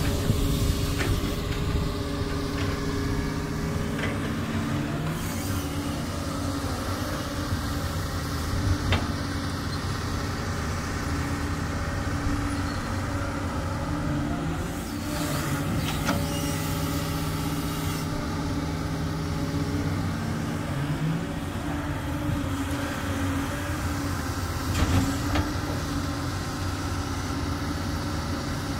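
Doosan DX200 excavator's diesel engine running steadily while it works, its note shifting as the hydraulic load changes, with a few sharp knocks now and then.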